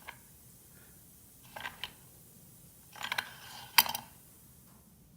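Metal parts of a small two-stroke engine being handled and fitted by hand: a few short clicks and rattles, the loudest a sharp click a little under four seconds in.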